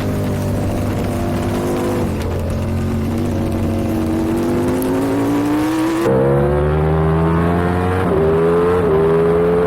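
Race superbike engine on board: revs ease off and hold low for a few seconds, then climb hard under acceleration, with two quick upshifts near the end.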